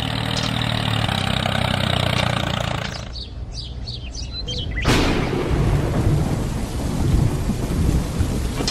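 A small engine idles with a steady low hum, then drops away for a moment. About five seconds in, a sudden loud rumbling noise starts and carries on to the end.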